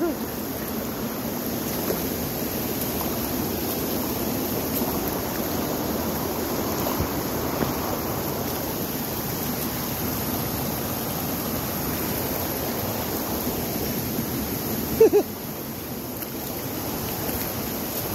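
A rain-swollen stream running fast and close, a steady rush of water.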